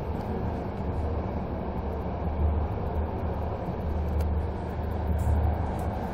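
Steady low rumble of a moving passenger train heard from inside the coach: wheels running on the rails.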